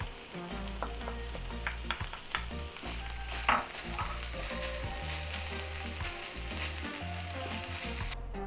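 Food sizzling as it fries in a pot on the stove, stirred with a utensil that clicks and scrapes against the pot several times, loudest about three and a half seconds in. The sizzle cuts off abruptly just before the end.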